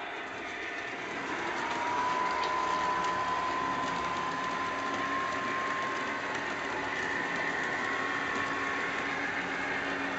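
Model train running on its track: a steady mechanical rumble with a thin whine that comes in about a second and a half in, rises slightly in pitch, and fades near the end.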